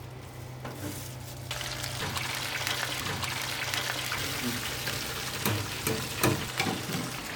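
Chicken fillet sizzling as it fries in hot oil, the sizzle starting about a second and a half in. A couple of sharp knocks come near the end.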